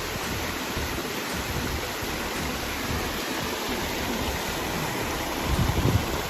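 Steady rushing noise, with a short burst of low rumbling buffets near the end.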